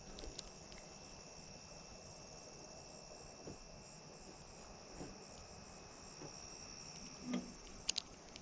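Insects chirring steadily in the background, a faint high-pitched trill, with a few sharp clicks near the end.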